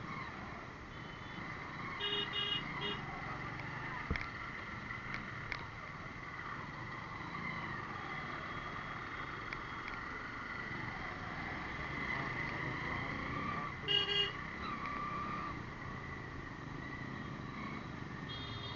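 Road traffic: steady engine and road noise, with vehicle horns honking in short beeps about two seconds in and again louder around fourteen seconds.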